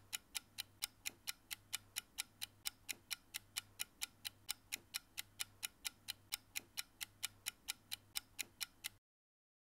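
Clock-ticking sound effect marking a countdown timer, steady at about four ticks a second, which stops about nine seconds in.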